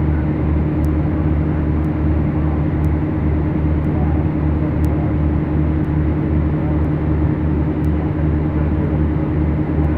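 Beechcraft Duchess twin Lycoming O-360 engines and propellers running steadily, heard from inside the cockpit, a loud constant drone with a regular low throbbing pulse a few times a second.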